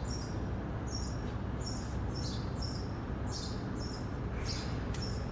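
Small birds chirping: short, high, falling chirps repeating about twice a second over a steady low rumble.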